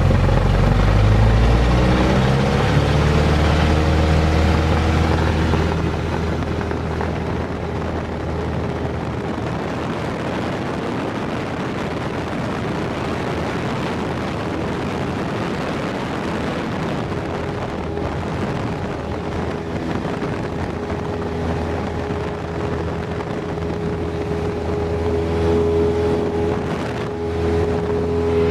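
Single-engine Cessna Skyhawk heard from inside the cabin: the engine's pitch rises over the first couple of seconds, then settles into a steady drone of engine and rushing air. A steady hum joins in about halfway through.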